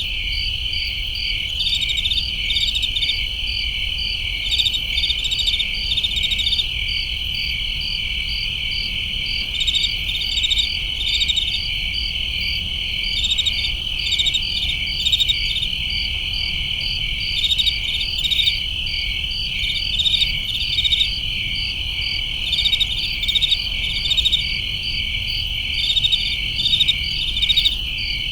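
A chorus of crickets chirping steadily, dense high-pitched trills with overlapping pulsed chirps, over a faint low background rumble.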